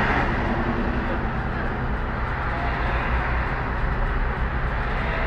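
Steady low rumble of a stationary car's idling engine and road noise, heard from inside the cabin through a dashcam microphone.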